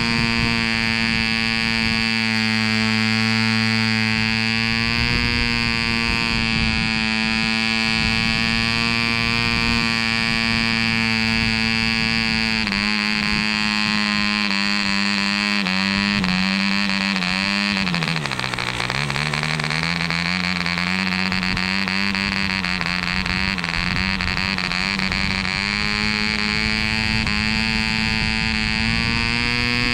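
Mills 0.75 cc model diesel engine running at full speed with an 8x4 propeller, a loud, steady buzz. A little under halfway through its note drops, then sags to about half speed a little after the middle and picks back up to full speed by the end.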